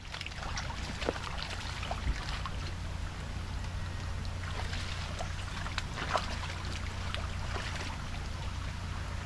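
Water splashing and trickling against a car, over a steady low engine hum, as the car moves through floodwater on the road.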